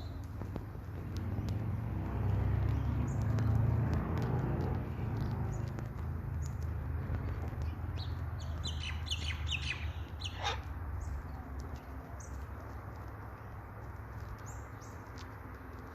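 Scattered short bird chirps over a steady low rumble. About nine seconds in there is a brief burst of higher calls, ending in one call that falls in pitch.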